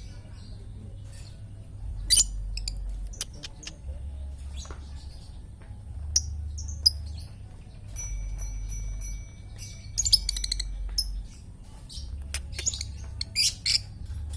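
Lovebirds chirping in short, sharp bursts, over a low steady hum.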